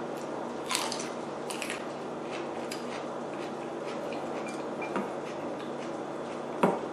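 Eating at a table: utensils clicking lightly against a bowl and dishes, several scattered small clicks over a steady hiss, with one louder knock near the end.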